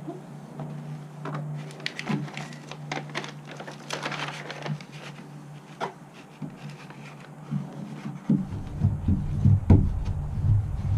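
A sheet of Killmat butyl sound-deadening mat being handled and fitted to a van's sheet-metal panel: scattered crinkly rustles and clicks, then from about eight seconds in a run of low thumps and rumbles as it is pressed against the panel.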